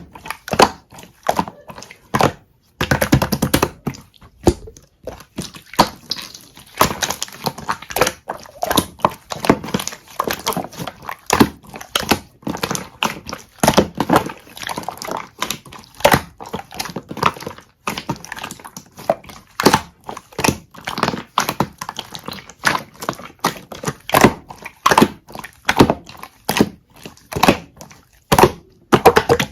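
Sticky 'melted honey jelly' slime being squished and pressed by hand, giving a continuous run of wet clicks and pops, with a dense flurry of them about three seconds in.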